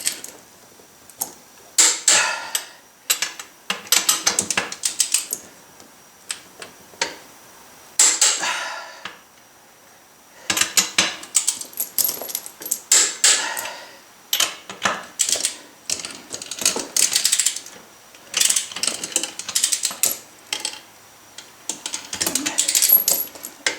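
Socket wrench ratcheting in repeated bursts of rapid clicks, with short pauses between strokes, as the lug nuts on a tractor wheel spacer are tightened.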